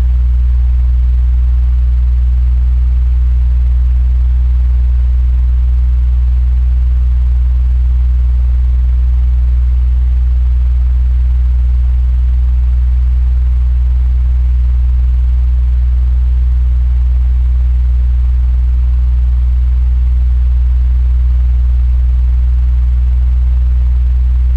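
Electric fan running steadily: a strong, even low hum with a soft rush of air above it.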